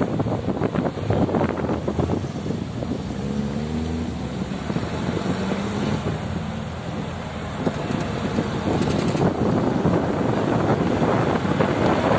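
Wind buffeting the microphone of a moving vehicle, over road and engine noise. A steady engine note rises slightly for a few seconds in the middle.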